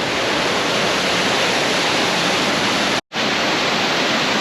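Loud, steady rush of water churning down a river cascade. It cuts out for a split second about three seconds in.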